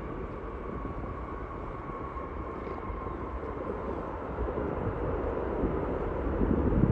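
Jet airliner engines rumbling, growing steadily louder as the aircraft comes closer, with a faint whine that slides slightly down in pitch.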